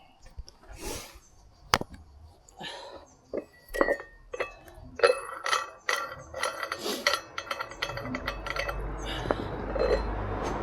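Metal weight plates on plate-loaded dumbbells clinking and knocking irregularly as the dumbbells are handled. A steady low noise comes in near the end.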